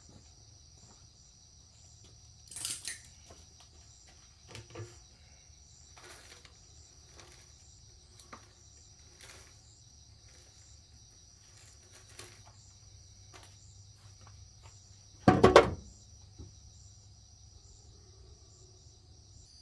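Crickets chirping steadily, with scattered short knocks and a louder clatter about fifteen seconds in.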